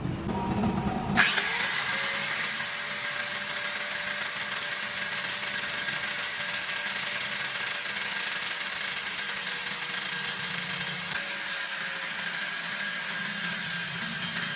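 Power cutting machine for fridge compressors switching on about a second in and running steadily with a high hiss and a faint whine.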